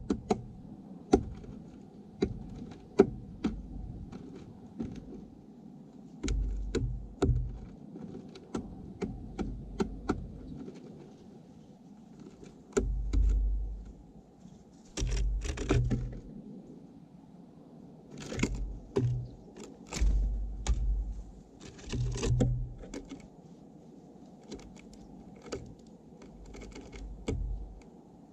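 Birds at a feeder right by the microphone: irregular sharp taps and clicks of beaks pecking at seed and the feeder. Now and then a low rumble lasts about a second.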